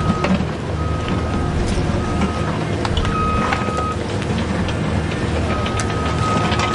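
Toy RC construction vehicle running: a steady low engine-like drone with high beeps that start and stop at irregular lengths, and scattered small clicks.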